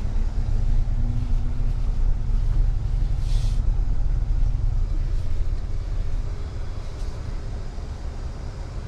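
Toyota Tundra pickup running at low speed, a steady low rumble, with a short hiss about three seconds in; it grows a little quieter near the end.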